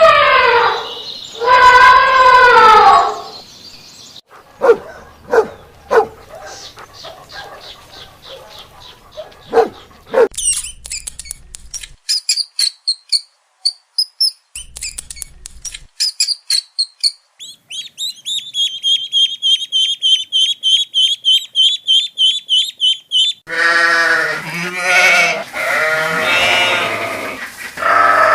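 A string of different animal calls. Loud bleating opens and closes it, and in between there are short pulses, then rapid high chirping repeated many times a second.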